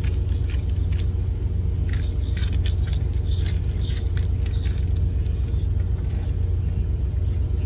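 Idling truck engine, a steady low drone, with scattered light clicks and rattles from seasoning being shaken onto a steak.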